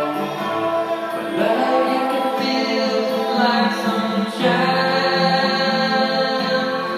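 Music with singing: long held vocal notes that change pitch every second or so.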